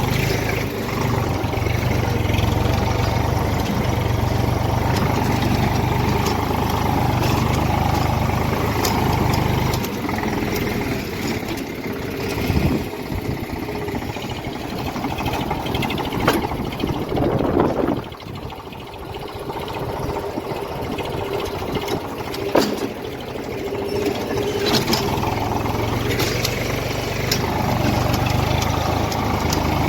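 Eicher tractor's diesel engine running. The deep low engine sound weakens from about a third of the way in and picks up again near the end, with a few sharp clicks along the way.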